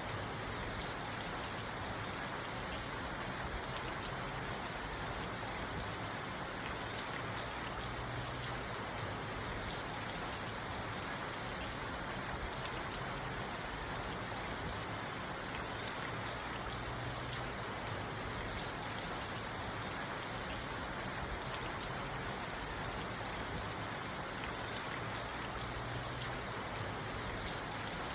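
Steady rain falling on a parked car, heard from inside the cabin as an even, unbroken patter with no thunder.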